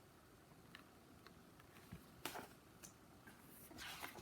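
Near silence: room tone with a few faint clicks and a brief soft rustle about two seconds in and again near the end.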